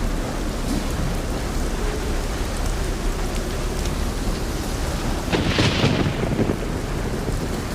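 Steady rain falling, a continuous hiss over a deep low rumble. About five seconds in, a brief louder hissing swell rises and falls within a second.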